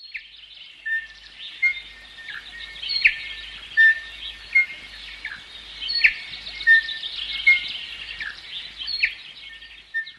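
Many birds chirping and calling together, with short whistled notes and a sharp downward call recurring about every three seconds.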